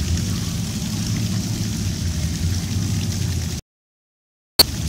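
Low, steady rumble of old car engines cruising past. The sound cuts out completely for about a second near the end and comes back with a sharp click.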